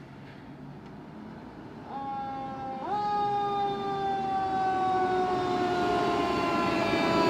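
Fire truck siren coming on about two seconds in. It sweeps up quickly, then falls slowly in a long wail, getting louder as the truck approaches, over a low traffic rumble.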